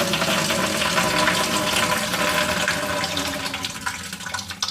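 Water draining from a Desert Spring furnace humidifier's reservoir through its drain pipe into a bucket: a steady splashing pour that begins to fade near the end.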